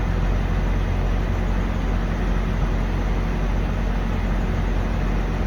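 Steady low drone of idling diesel truck engines, a constant hum with no changes.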